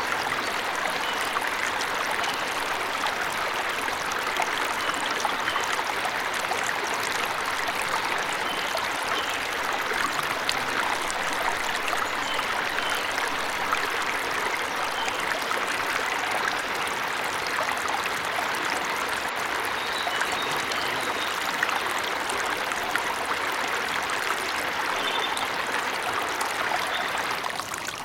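Steady rushing water of a waterfall, with faint short bird chirps now and then above it. The water dips briefly just before the end.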